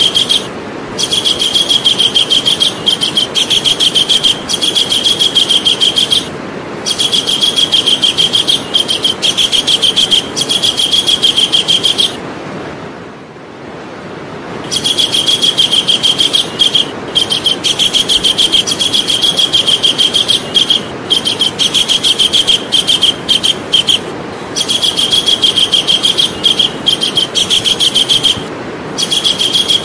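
Javan kingfisher calling: long runs of rapid, evenly repeated sharp notes, broken by short pauses every few seconds and a longer pause about halfway through.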